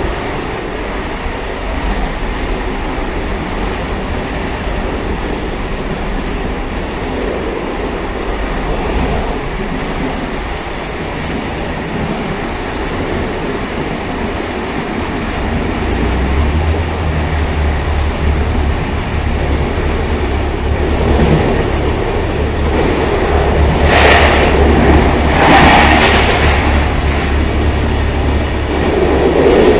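Railcar running on the rails: a steady rumble of wheels on track that grows louder from about halfway, with a deep hum setting in. Near the end come two brief sharp noises about a second and a half apart.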